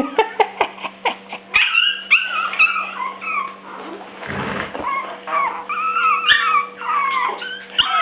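Puppies whining and yipping: many short, high cries that slide up and down in pitch, with a quick run of sharp yips in the first second. A brief low rumble comes about four seconds in.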